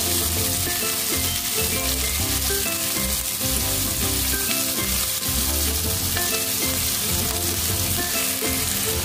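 Chopped shallots, garlic and red chilies sizzling in hot oil in a wok as they are stir-fried, stirred with a plastic spatula.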